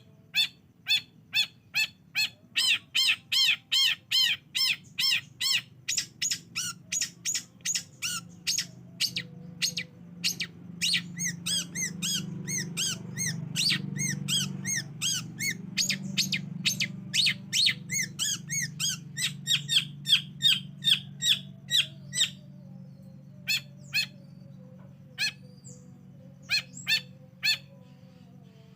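Long-tailed shrike (cendet) song used as a lure call: a fast run of short, harsh, scratchy notes repeated about three to four times a second, breaking off briefly about three-quarters of the way through and resuming more sparsely. A steady low hum runs underneath.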